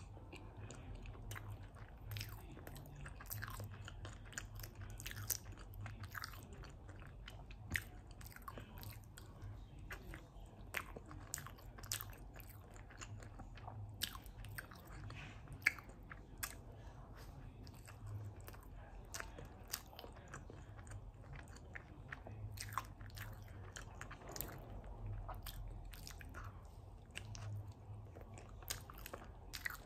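Close-miked chewing of soft, moist red velvet cake with a chocolate topping, full of sticky, wet mouth clicks and smacks that come irregularly, several a second.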